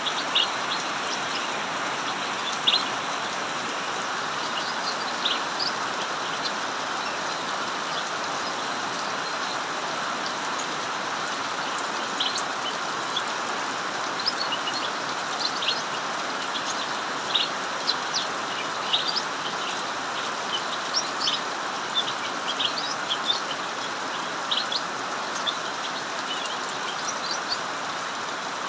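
Steady hiss of heavy rain, with short high chirps from a cucak mini bird singing through it, the chirps coming more often in the second half.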